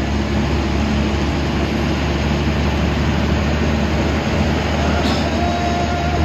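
Inside the cabin of a moving air-conditioned bus: steady engine and road rumble with a broad hiss of driving noise.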